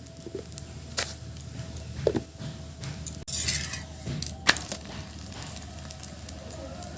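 Sharp taps and knocks of handling at a hot tawa as a thin roti is turned and lifted, a handful of separate clicks with the loudest about four and a half seconds in.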